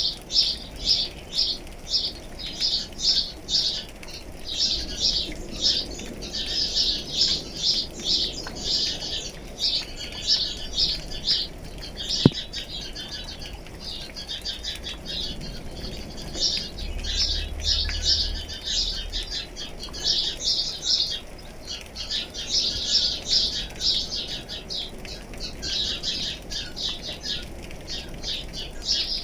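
Songbirds chirping in quick repeated strokes, several per second, in bouts that swell and ease, over a faint background of light rain. A single sharp tick about twelve seconds in.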